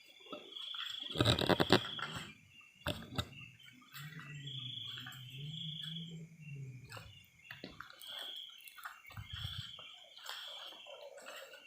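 Night-time forest chorus of insects, a shrill trilling that swells in pulses about once a second over a steady higher hiss. A cluster of sharp knocks about a second in is the loudest sound, and a low drawn-out hum comes in for a few seconds midway.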